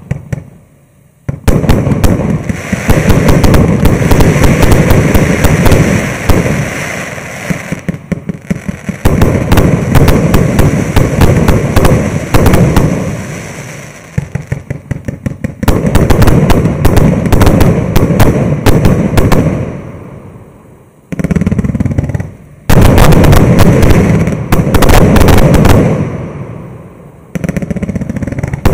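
Multi-shot fireworks cake of 1.2-inch (about 30 mm) tubes firing in long rapid volleys, each a dense string of launches and bursts. There are short lulls about a second in, around eight seconds, and about 21 seconds in.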